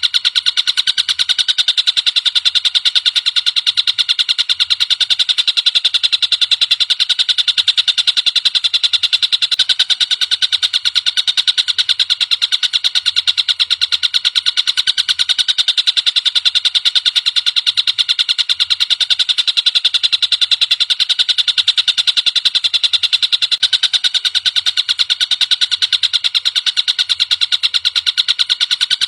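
Tengkek buto (collared kingfisher) calling in a rapid, unbroken chatter of sharp, high ticks that keeps up the same pace throughout.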